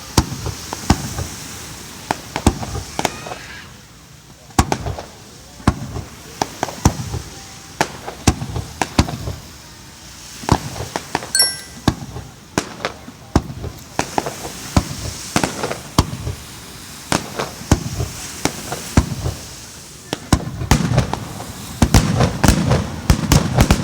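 Aerial fireworks bursting in quick succession: a running string of sharp bangs and crackles, coming thickest near the end.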